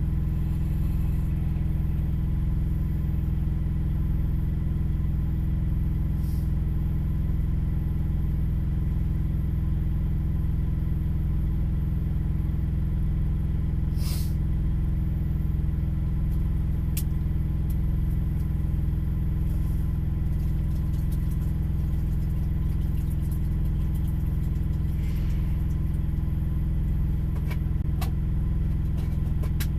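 A large engine idling steadily, a constant low hum heard from inside a truck's cab, with a few faint clicks.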